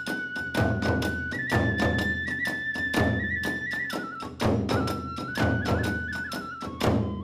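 Kagura hayashi ensemble playing: a bamboo transverse flute holds long, high notes that step up and down, over a fast, steady beat of taiko drums and small hand cymbals.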